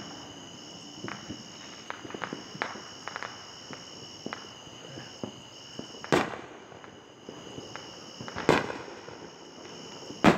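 Fireworks going off: scattered small pops and crackles throughout, with three louder bangs about six, eight and a half, and ten seconds in, the last the loudest. Insects trill steadily underneath.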